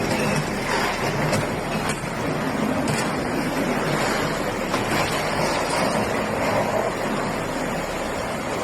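Floodwater rushing: a steady, even roar of water noise.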